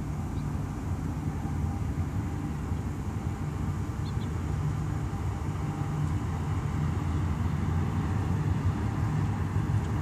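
CSX ethanol freight train passing: a steady low drone of its diesel locomotives with the rolling of its tank cars, growing slightly louder.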